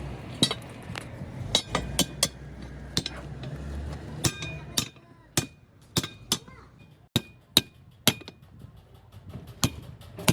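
A hammer striking metal: about sixteen sharp, irregularly spaced blows, several with a short metallic ring. A low rumble underneath fades out about halfway through.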